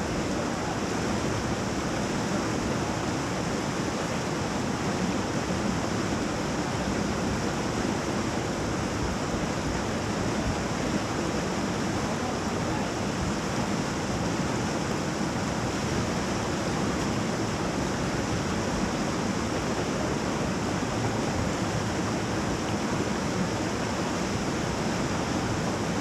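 Whitewater of a river rapid rushing in a steady, unbroken wash.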